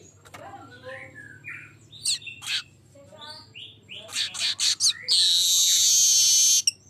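Streaked weaver singing: a run of short chirps and chattering notes, then a loud, buzzy sizzling trill held for about a second and a half near the end.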